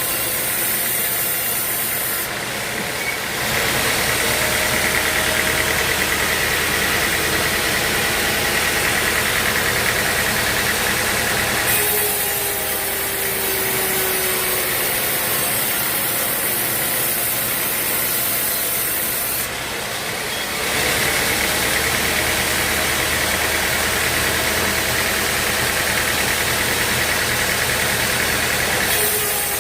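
Sawmill machinery running steadily. Its sound switches back and forth between two states about every eight seconds: a deeper steady hum, then a brighter hiss with a short falling whine.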